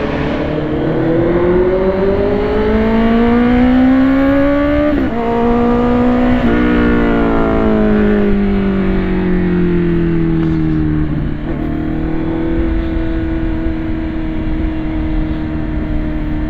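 BMW S1000RR inline-four engine accelerating hard, its pitch rising for about five seconds, with two quick upshifts about five and six and a half seconds in. Then the pitch falls slowly as the throttle eases, and the engine settles to a steady cruise for the last few seconds.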